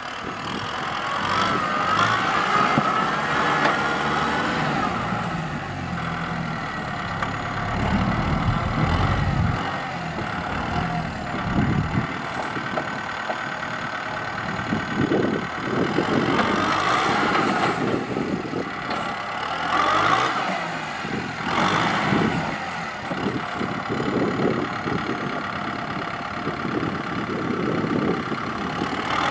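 Kubota M6040SU tractor's diesel engine working under load while pushing soil, its note rising and falling, with several louder surges.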